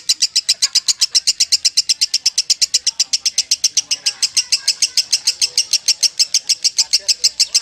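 Lovebird singing its long 'ngekek' song: an unbroken rapid chatter of sharp, high notes at about eight a second, held without a pause.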